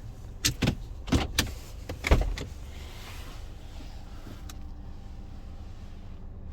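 Low, steady car cabin rumble, with a quick run of sharp knocks and clicks in the first couple of seconds, the loudest a little after two seconds in.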